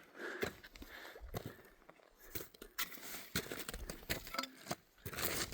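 Footsteps of a climber's boots on rocky ground during a summit climb, an irregular series of crunches and knocks, with some low rumble of wind or handling on the microphone.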